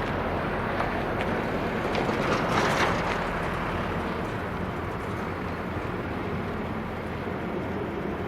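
Rail grinder working on the track: a steady grinding rumble that swells briefly about two to three seconds in.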